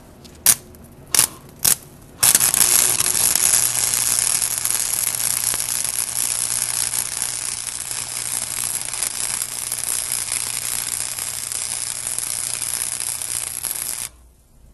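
Electric arc welder welding galvanized steel: three brief arc strikes, then a continuous crackling bead run that fills a gap, with a low electrical hum under it, cutting off abruptly about a second before the end.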